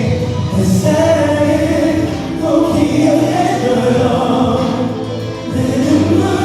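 Pop ballad sung live over an amplified backing track, with long held vocal lines and choir-like voices.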